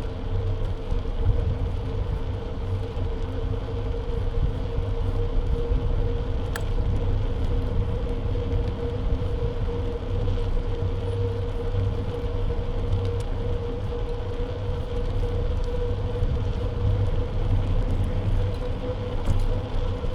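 Wind and road noise on a bike-mounted action camera's microphone while riding: a steady low rumble under a constant mid-pitched hum, with a couple of faint clicks.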